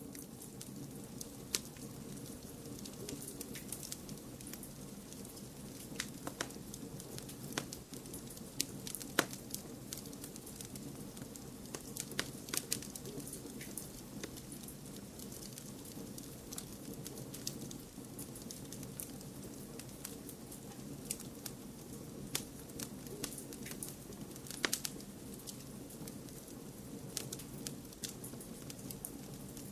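Wood fire crackling, with irregular sharp pops and snaps over a steady low rush of flame and noise.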